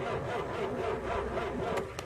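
Tractor engine being cranked over by its starter, a rhythmic pulsing of about six beats a second that cuts off with a click near the end as the engine catches.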